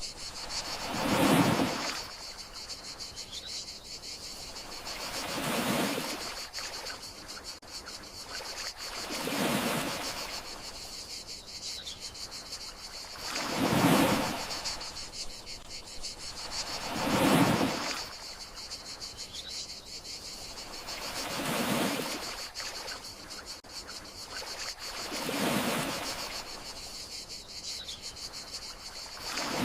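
Gentle sea waves rolling in and washing out about every four seconds, over a steady chirring of crickets. Faint short bird chirps come in a few times.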